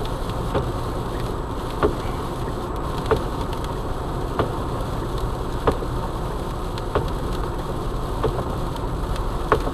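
Steady low road and engine noise inside a moving car's cabin, with a short sharp click repeating regularly about every second and a quarter.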